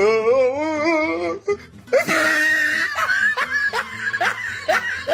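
A person laughing: first a wavering, drawn-out laugh, then a run of short rising bursts about two a second, with music behind.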